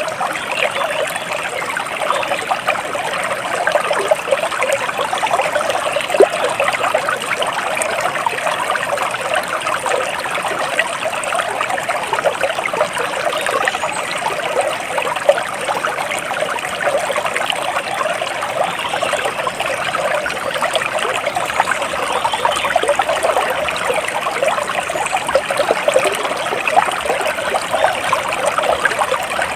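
A small stream of water trickling and babbling steadily.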